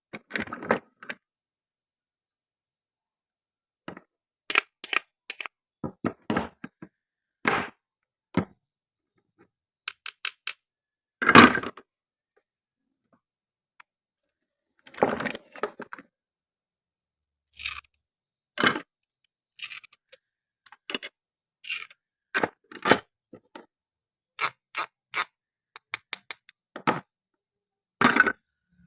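Toy plastic and wooden fruit and vegetables being cut and handled: a string of sharp clicks, clacks and short scrapes at irregular intervals, with silence between them. The loudest clack comes about eleven seconds in.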